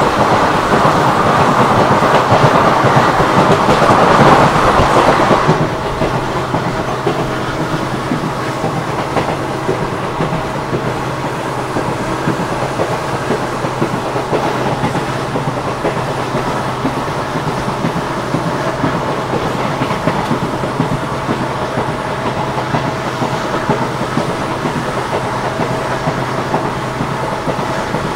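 Indian Railways ICF passenger coach running on the track, its wheels and bogies making a steady running noise over the rails. The noise is louder for the first five seconds or so and then drops suddenly to a lower, steady level.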